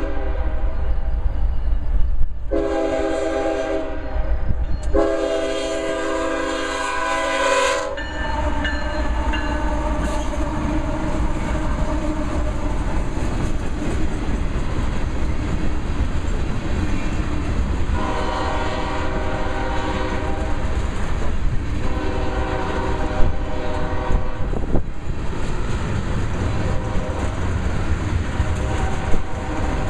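Horn of the lead CP GE ES44AC locomotive blowing three loud, long blasts for the crossing. The locomotives and a string of tank cars then roll past with steady wheel noise and clickety-clack over the rail joints. The horn sounds again, fainter, in three more blasts in the second half.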